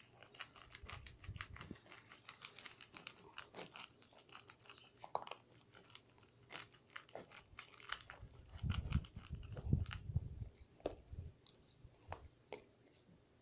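Great Pyrenees puppy chewing and crunching its food in quick, irregular bites, with a few low thumps about nine to ten seconds in.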